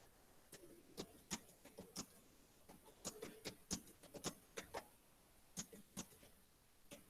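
Faint, irregular clicking: about fifteen short, sharp clicks in uneven clusters, most closely spaced in the middle of the stretch.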